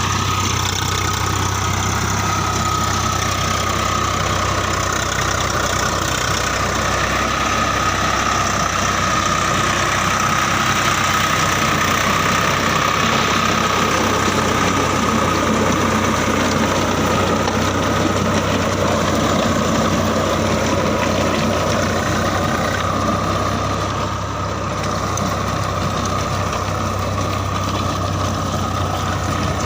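Tractor diesel engine running steadily under a constant note, with a steady high whine over the engine's low hum.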